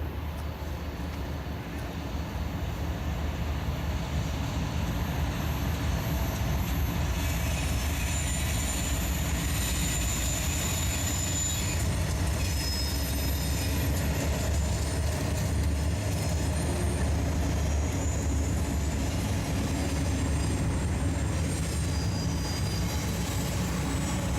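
Freight train rolling past, a steady low rumble of wheels and cars that builds over the first few seconds. From about a third of the way in, thin high-pitched wheel squeal rides over it.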